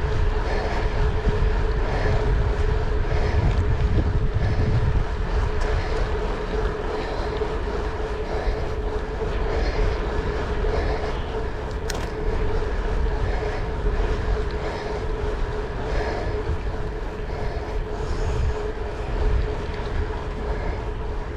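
A vehicle running: a steady low rumble with a constant hum, louder in the first five seconds.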